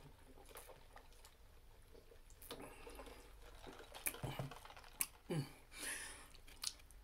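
Faint eating and drinking mouth sounds: wet clicks and smacks of chewing, with two short low hums in the second half.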